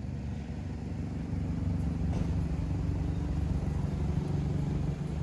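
Mercedes-Benz SL500 (R230) V8 running with its mufflers deleted, a steady low exhaust note that gets a little louder a little under two seconds in.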